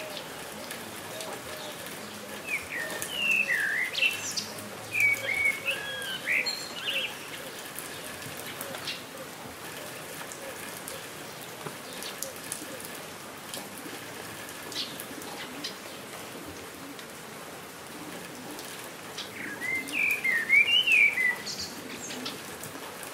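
Steady rain with scattered drips, and a bird singing quick, swooping whistled phrases in two spells: a few seconds in and again near the end.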